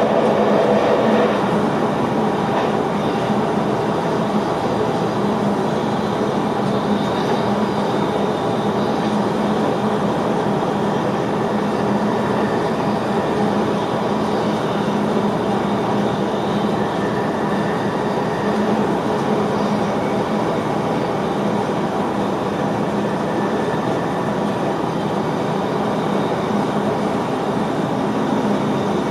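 Steady running noise of an NS VIRM double-deck electric train heard inside the driver's cab at speed: an even rumble and rush of wheels on rail with a constant hum. A slightly louder mid-pitched band fades out in the first second or so.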